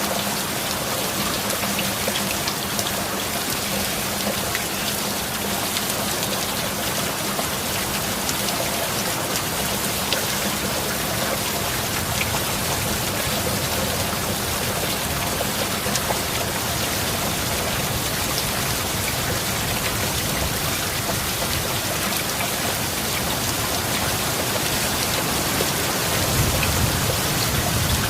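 Steady heavy rain pattering down, a dense even hiss with fine drop ticks. Near the end a low rumble of thunder swells in beneath it.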